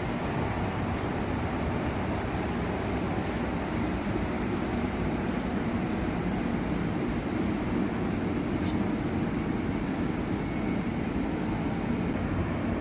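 A freight train rolling past steadily, with a thin high wheel squeal that comes and goes through the middle and a few faint clicks.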